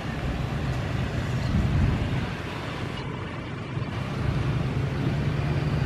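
Strong wind buffeting the microphone: a steady low rumble with a hiss above it, getting louder about four seconds in.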